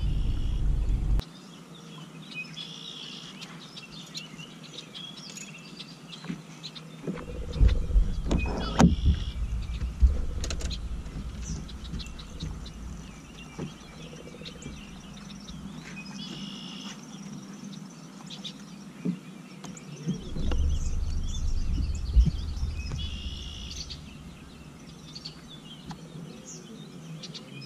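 A bird sings the same short song phrase over and over, about every six seconds. A low rumble fades out in the first second and returns twice for a few seconds as the loudest sound, with a few sharp clicks in the middle.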